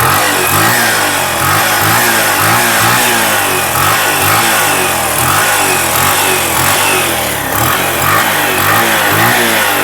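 Bajaj CT 100 motorcycle's single-cylinder engine revved up and down in quick, regular throttle blips. The silencer has been repaired by gas welding and gives no rattle, only a puffing from the exhaust outlet.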